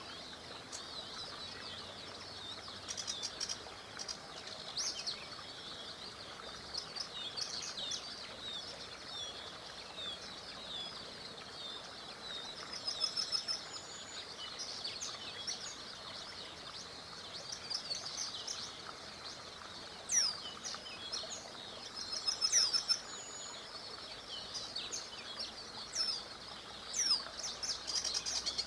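Several songbirds chirping and trilling in quick, overlapping calls over a steady rush of flowing river water.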